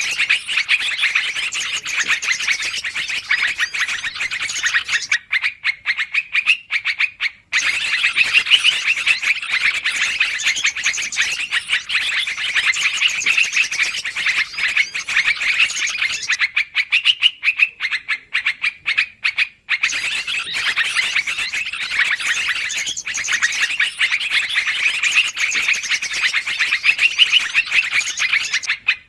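Yellow-vented bulbuls (trucukan) giving busy, rapid chattering calls. The chatter twice thins out for a couple of seconds into scattered short clicking notes, then resumes.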